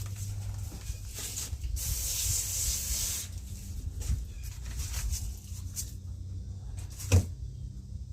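A hose mister spraying and a brush scrubbing over wet concrete, a hiss with scraping under it, over a steady low hum; a single sharp knock about seven seconds in.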